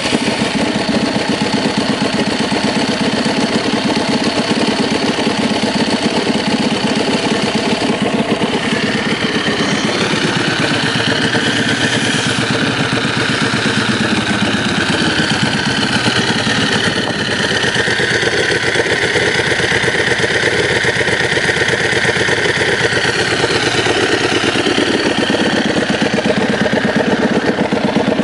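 Aprilia SXV 550 supermoto's V-twin engine idling steadily, just after being started.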